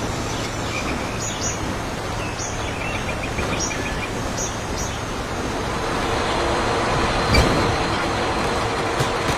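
Rainforest ambience: a steady rushing noise with repeated short, high animal calls in the first half and a steady droning tone in the second half. There is one sharp click about seven seconds in.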